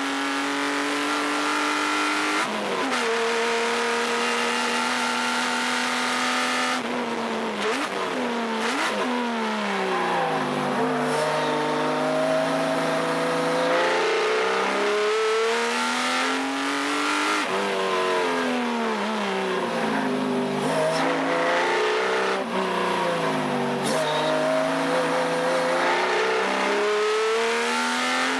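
Subaru EZ30 3.0-litre flat-six in a Porsche 914/6 driven hard on a race track, rising in pitch under acceleration and dropping at each gear change. About seven seconds in the revs fall sharply, with two quick blips of throttle on the way down, and the engine then pulls up and eases off several times through the rest of the lap.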